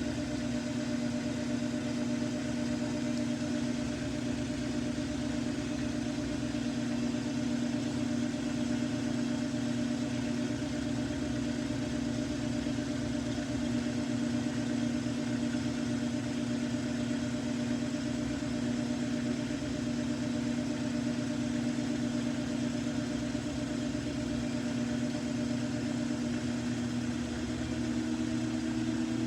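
Samsung washing machine drum spinning: a steady motor hum that edges slightly higher in pitch near the end.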